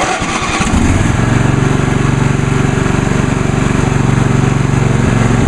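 A 22 hp Briggs & Stratton Intek V-twin on a lawn tractor, cold-started on choke: the starter cranks briefly, the engine catches about a second in and then runs steadily. The owner says it still has carburetor issues and is not running quite right.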